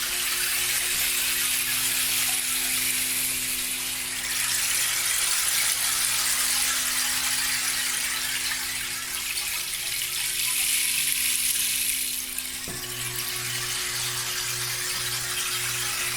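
Sound-healing instruments: steady low drone tones under a water-like wash that swells and fades in waves every few seconds. About twelve seconds in, the wash drops back and the lowest tone starts to pulse, about two beats a second.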